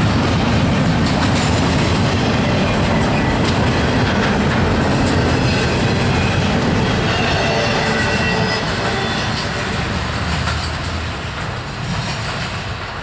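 Norfolk Southern intermodal freight train's empty well cars rolling past close by, steel wheels rumbling and clacking over the rail with some thin wheel squeal. The sound fades over the last few seconds as the end of the train moves away.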